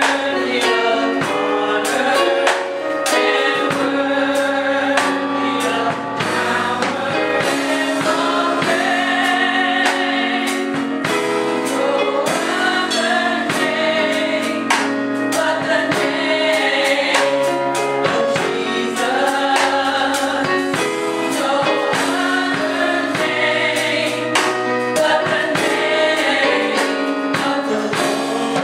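Gospel choir singing with a band, with drums keeping a steady beat.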